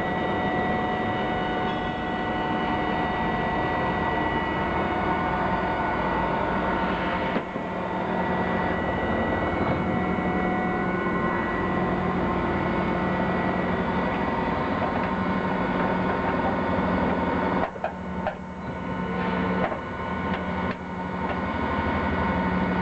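1993 Star JNC-32 CNC lathe running, a steady mechanical whine of several tones from its spindle drive and motors. The pitch pattern changes about seven seconds in, and in the last few seconds the sound is broken by short drops and knocks as the machine changes operation.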